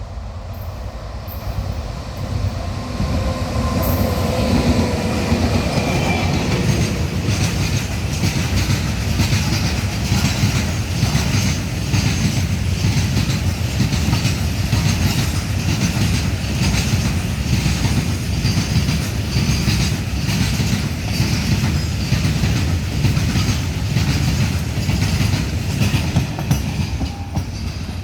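A freight train passing at high speed. It grows louder over the first few seconds, then runs on as a steady heavy rumble with the wheels clattering in a repeating rhythm over the rail joints. A faint whine sounds early on as it draws near.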